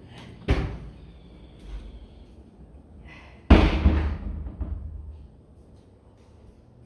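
Two thumps about three seconds apart, the second louder with a low rumble trailing for about a second and a half.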